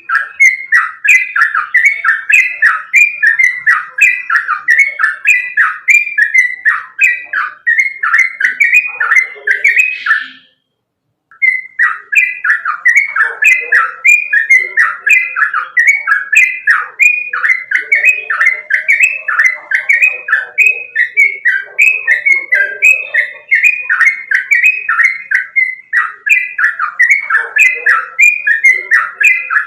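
Yellow-vented bulbul (trucukan) singing a loud, fast, continuous run of short falling notes, a few per second, with a brief break about ten seconds in.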